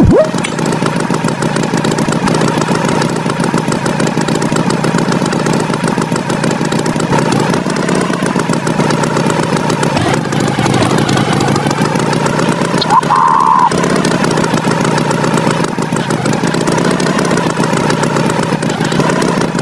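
Tractor engine sound effect running steadily with a dense, even chugging drone. A short higher tone cuts in about two-thirds of the way through.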